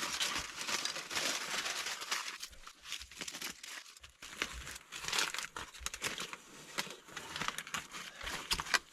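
Aluminium foil crinkling and tearing in irregular bursts of handling as a foil-wrapped potato is opened to check whether it is cooked.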